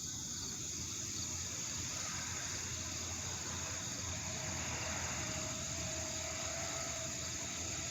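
Steady high trilling of a cricket chorus, over a faint low rumble; a faint steady tone joins about halfway through.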